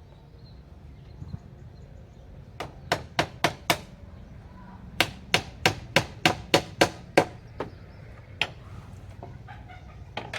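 Rapid series of sharp chopping or knocking strikes: five quick blows, a short pause, then about nine more at three to four a second, followed by a couple of slower ones.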